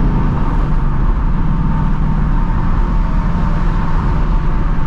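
2024 Ford Mustang GT's 5.0-litre V8 running steadily through its stock active exhaust, holding an even engine note.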